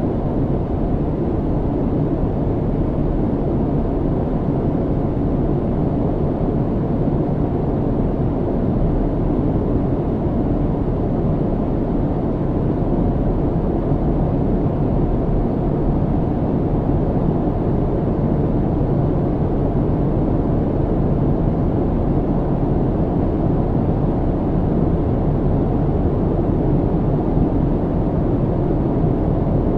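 Airliner cabin noise in flight, heard from inside the cabin: a steady low drone of engine and rushing air, level and unchanging.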